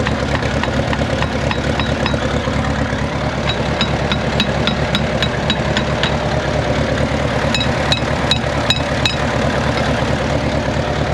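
1947 Case Model S tractor's four-cylinder engine running steadily at idle, uneven with a misfire on one cylinder. Two runs of sharp ticks, several a second, sound over it in the middle.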